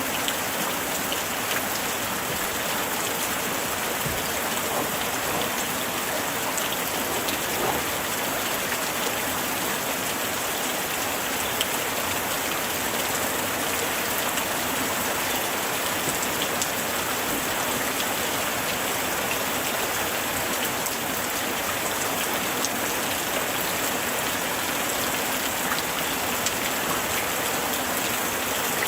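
Light rain falling steadily, a continuous even hiss of rain with many small drops pattering.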